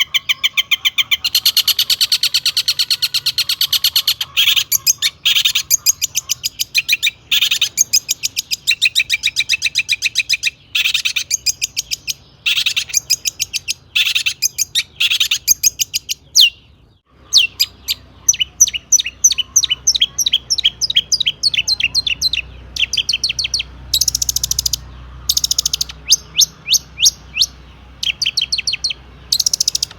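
Long-tailed shrike (cendet) singing in loud, fast, high chattering runs of rapidly repeated notes, broken by short pauses, the longest about halfway through.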